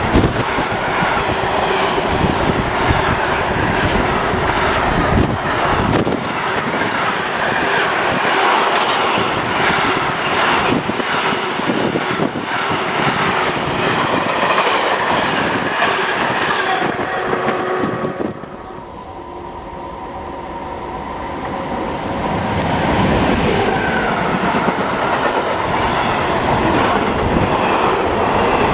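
A passing train runs close by at speed, its wheels clattering over the rail joints. About two-thirds of the way through the sound drops off suddenly, then builds again as another train approaches and passes.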